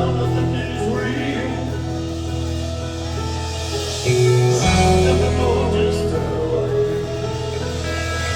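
Rock band music: held guitar and keyboard chords over a sustained bass note, with the bass changing about four seconds in.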